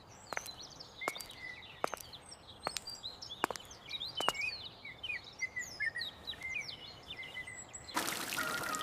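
Small birds chirping and twittering, with water dripping in single drops about once every second during the first half. Near the end a steady hiss like rain comes in, together with music.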